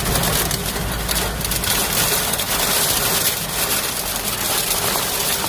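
Heavy rain pouring down in a storm, a steady dense hiss, with wind rumbling on the microphone for the first couple of seconds.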